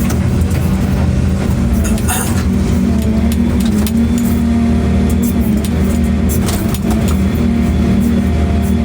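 A large engine running steadily with a low, even drone, overlaid by scattered clicks and knocks.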